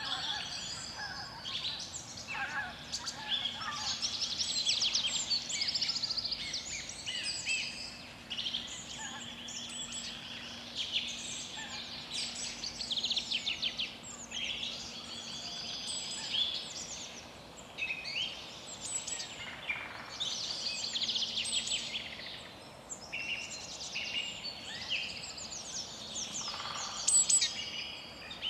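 Several birds singing at once, a dense chorus of overlapping chirps and fast trills that rises and falls in loudness.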